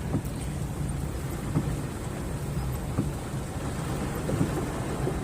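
Steady rainfall with a low rumble underneath.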